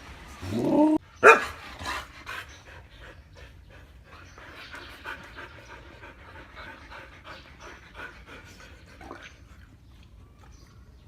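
Siberian husky vocalizing: a rising, drawn-out call about half a second in, then a short, loud call just after a second in. This is followed by several seconds of steady panting.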